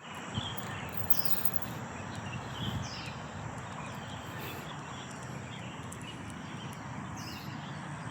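Birds chirping in short repeated calls, a few as quick falling notes, over a steady rushing outdoor background noise.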